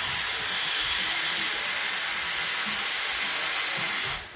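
Steam venting with a loud, steady hiss from Cass Scenic Railroad no. 6, a 1929 C-class Heisler geared steam locomotive. The hiss cuts off suddenly near the end.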